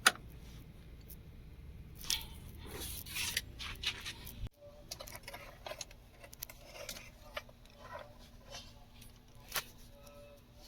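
Quiet handling noises: scattered light clicks, rattles and scrapes. A faint low hum sets in after about four and a half seconds.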